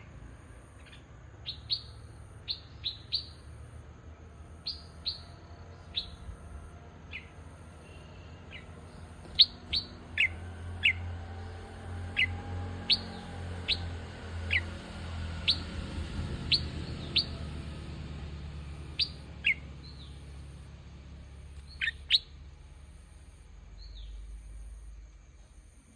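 Bulbuls calling: short, sharp chirps that drop quickly in pitch, given singly or in quick pairs and clusters at irregular intervals.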